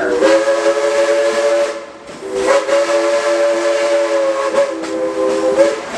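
Steam locomotive's chime whistle sounding a chord of several steady tones in two blasts, a shorter one and then a longer one.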